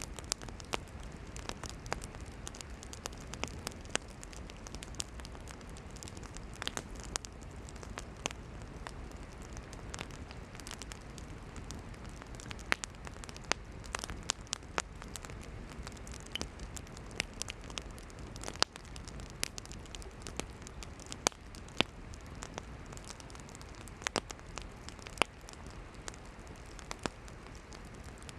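Wood campfire burning: a steady soft hiss with irregular sharp crackles and pops of the firewood, a few louder snaps scattered among them.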